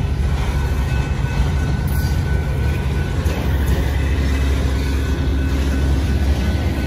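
Intermodal freight train of truck trailers on flatcars rolling past, its wheels on the rails making a steady, heavy low rumble.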